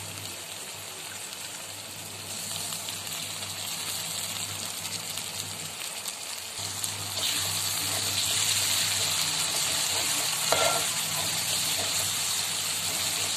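Onion, green chilli and ginger-garlic paste masala sizzling in hot oil in an aluminium pot, with freshly added chopped mint being stirred in with a steel spoon. The sizzle gets louder about seven seconds in.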